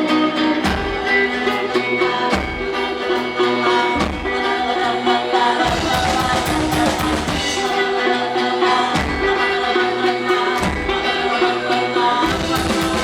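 Live rock band playing a song's instrumental intro: sustained chords over a deep drum beat that lands about every one and a half seconds.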